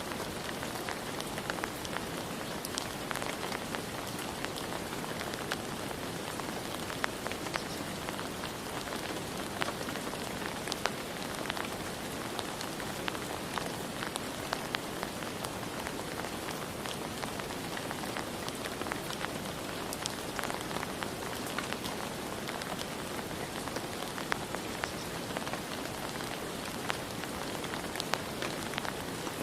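Steady rain, with frequent sharp ticks of single drops hitting a nearby surface.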